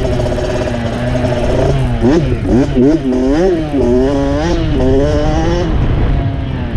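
Dirt bike engine running under a rider's throttle. Its pitch is fairly steady at first, then rises and falls several times in quick succession as the throttle is opened and closed over the trail, then settles again near the end.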